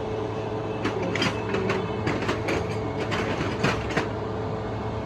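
Metal tools and parts clinking and knocking in a quick, irregular run of strikes from about one to four seconds in, over a steady hum.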